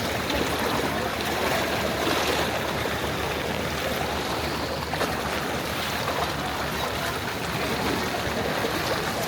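Steady rushing wash of floodwater, a continuous even water noise without breaks.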